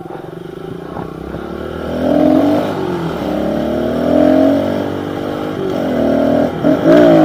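Small single-cylinder pit bike engine accelerating hard. Its pitch climbs, drops back and climbs again several times as the rider shifts up through the gears.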